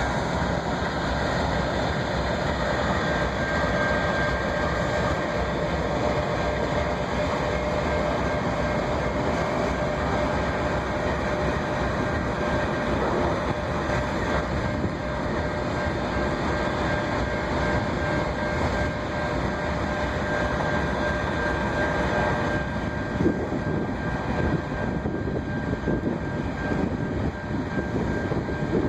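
A train, heard as a steady rumble with two faint steady tones over it.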